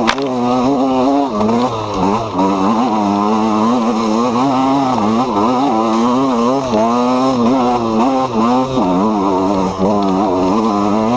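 KTM EXC 125's single-cylinder two-stroke engine being ridden, its pitch rising and falling constantly with the throttle. A sharp click at the very start.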